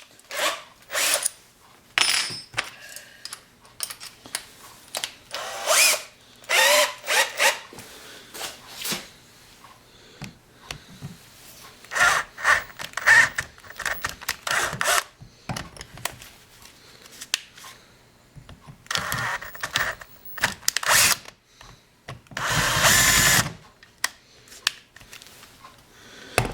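A power drill boring out the worn screw hole in an EMCO Compact 5 lathe's compound slide with a slightly oversize bit, enlarging it to take a bigger tapped thread. It cuts in many short bursts, some squealing with a shifting pitch, over a faint steady motor hum, with one longer, louder burst near the end.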